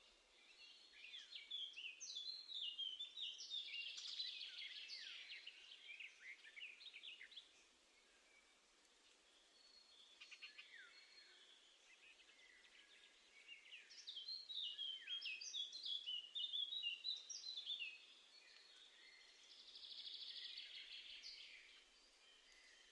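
Small garden songbirds singing and calling in quick high twittering phrases. The song comes in two busy spells with a quieter gap between them, and a short buzzy call follows near the end.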